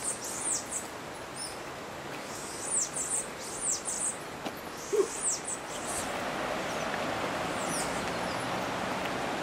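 Wild birds calling with short, high, downward-sweeping chirps in small clusters. From about six seconds in, a steady rushing noise rises underneath.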